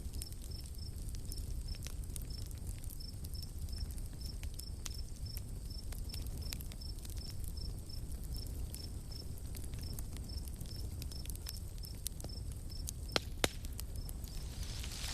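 Night forest ambience: a cricket chirping steadily about three times a second over a low steady rumble, with scattered crackles and two sharper pops of a campfire near the end, and a rising rustle or hiss in the last second.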